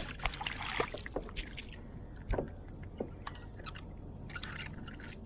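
Handling noise in a fishing kayak: scattered knocks, clicks and splashy rustles, with one louder knock a little over two seconds in.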